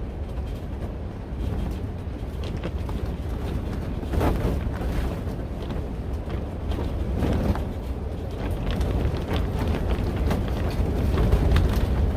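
Strong wind gusting against a cattle panel greenhouse, its covering flapping and rattling, over a steady low rumble of wind buffeting the microphone. The gusts pick up about four seconds in, again around seven seconds, and most strongly near the end.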